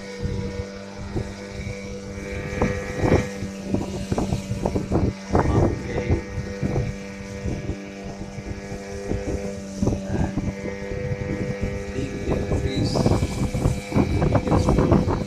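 Boat engine running at a steady pitch, with repeated short bursts of rushing noise that grow busier near the end.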